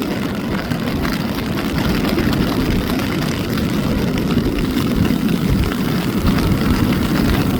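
Strong wind blowing across the microphone: a loud, rough, low rumble with no pitch.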